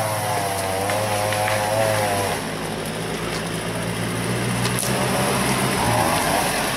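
UAZ off-road vehicle driving slowly and approaching on a rough dirt track, its engine running steadily. A higher, wavering whine rises just before the start, fades about two seconds in and comes back briefly near the end.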